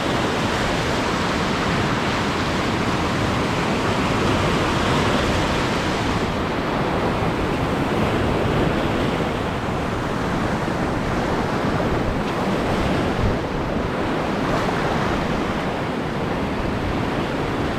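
Surf washing steadily over a shallow reef, with wind buffeting the action camera's microphone.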